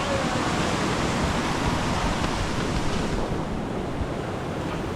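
Steady rushing of water from a man-made waterfall, an even wash of noise that loses some of its high hiss about three seconds in.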